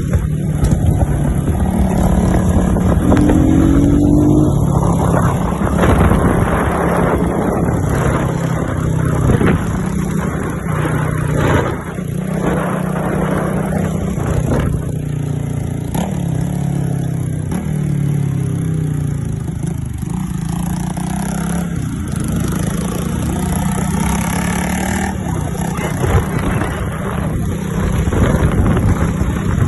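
Motorcycle engine running, its pitch stepping up and down as the throttle changes.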